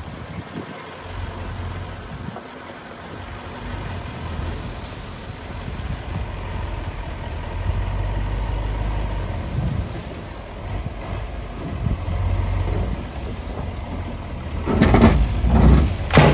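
Diesel engine of heavy earthmoving machinery running with a steady low rumble, then two loud clanks about a second apart near the end.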